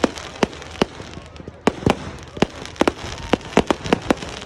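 Fireworks display with an irregular run of sharp bangs, about three a second, as shells and crackers burst overhead.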